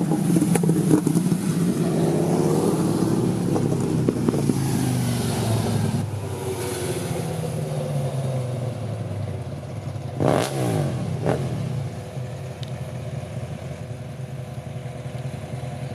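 Car engines running and revving, with rising engine pitch early on and two sharp rev blips about ten and eleven seconds in.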